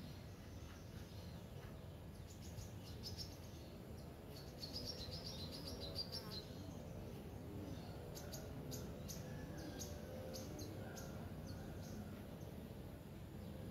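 Small birds chirping and singing, with short high chirps scattered throughout and a brief run of warbling song about five seconds in. Underneath is faint outdoor background noise.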